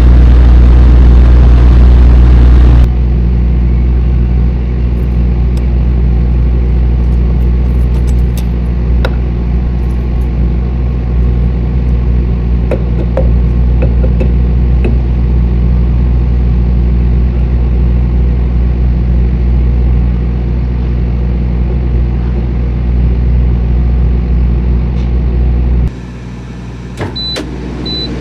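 Tractor-trailer's diesel engine running steadily, a loud low hum with a clear pitch. It drops quieter about three seconds in, drops again near the end, and then a regular series of short high beeps starts.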